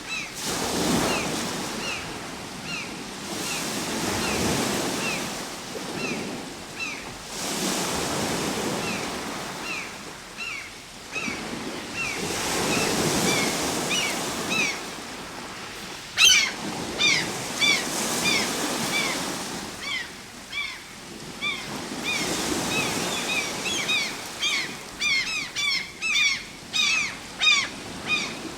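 Sea surf breaking and washing in, swelling and fading every few seconds. A bird chirps repeatedly over it in short falling notes, more busily in the second half. There is one sharp click partway through.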